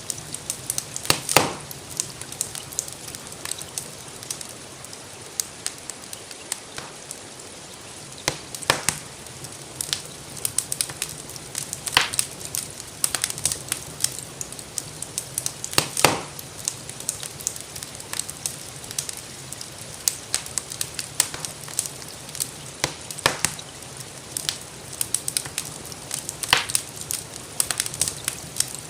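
Wood fire in a fireplace crackling, with many small pops and a few louder sharp snaps scattered through, over a steady hiss of rainfall.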